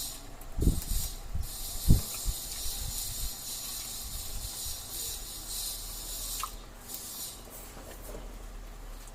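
Close-up eating sounds: chewing and small clicks of mouths and utensils, with a couple of soft knocks in the first two seconds, over a high hiss that cuts in and out.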